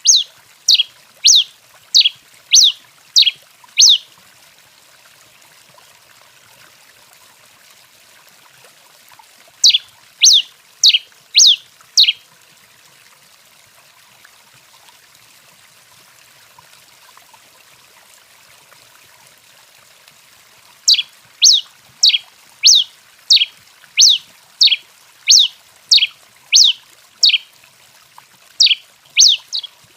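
Tico-tico-rei (pileated finch) singing: strings of sharp high notes, each a quick downward sweep, repeated about twice a second. The song comes in bouts: one at the start, a short one around ten seconds in, and a long one from about twenty seconds in through the end.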